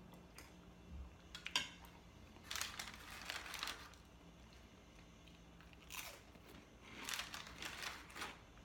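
A person eating: a spoon clicks once against a ceramic bowl about one and a half seconds in, then come two stretches of crunchy chewing.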